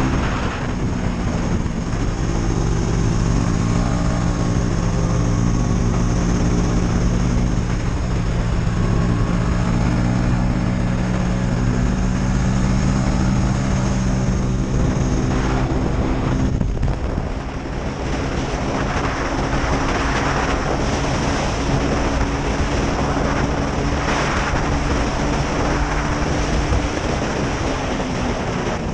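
KTM Duke 250's single-cylinder engine running at a steady speed. It dips briefly a little past halfway, then carries on with more hiss mixed in.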